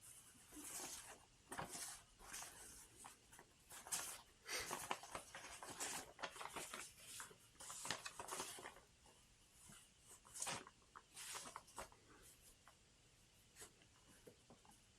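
Faint, irregular rustling and scratching, busiest in the first half and thinning out towards the end.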